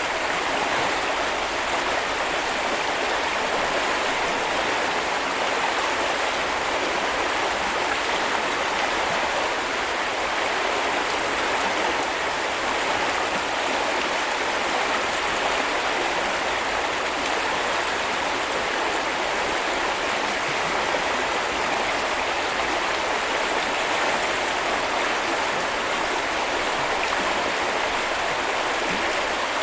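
River water flowing, a steady, even rushing without a break.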